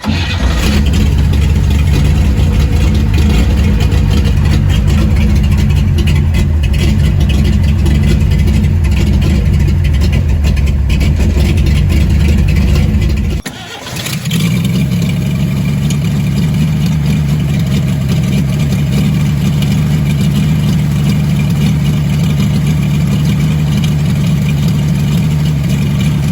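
1947 Chevrolet 3100 pickup's inline-six engine running steadily and loudly. About halfway through it drops out for under a second, then carries on at a higher pitch.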